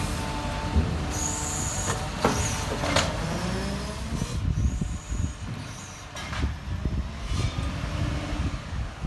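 Garbage truck engine running with a low rumble, with a hiss of released air about a second in and several knocks.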